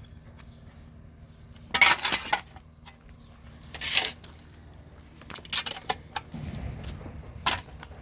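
Dishes and utensils clattering in several short bursts, with a faint low hum underneath.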